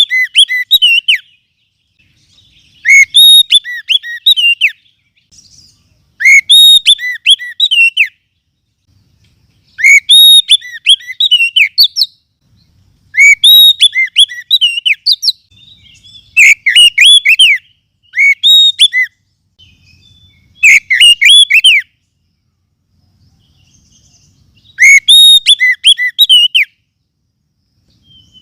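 Oriental magpie-robin song from a lure recording: short phrases of clear, sliding whistled notes, repeated about every three to four seconds, loud and clipped.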